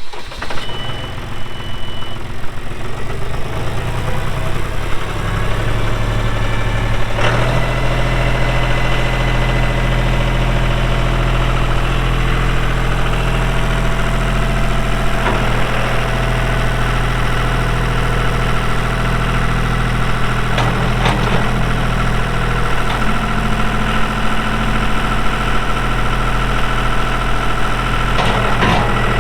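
John Deere 5105 tractor's three-cylinder diesel engine running just after start-up, with a short high beep in the first two seconds. The engine speeds up between five and seven seconds in, then runs steadily, with a few short clacks.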